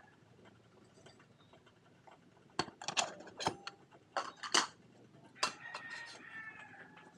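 A run of sharp clicks and knocks, about a dozen over three seconds, bunched in the middle, followed by faint wavering high tones.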